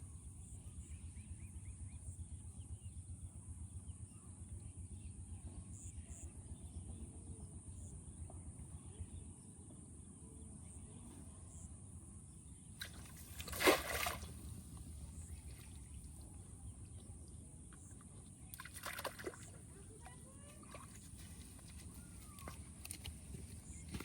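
Water sloshing gently over a steady outdoor background with a thin high whine, broken by a sudden loud splash-like burst about fourteen seconds in and a smaller one about five seconds later.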